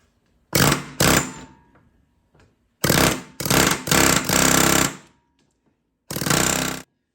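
Air hammer fitted with a flat-ended spring pin installer, driving a spring pin into the prop shaft yoke in six short bursts of rapid blows.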